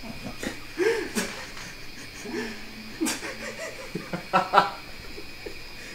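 People laughing in several short bursts, loudest in a quick run of pulses about four and a half seconds in.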